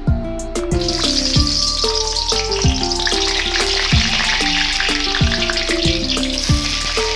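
Hot oil sizzling as raw potato chunks are dropped into a kadai and start to fry, the sizzle starting about a second in. Background music with a steady beat plays throughout.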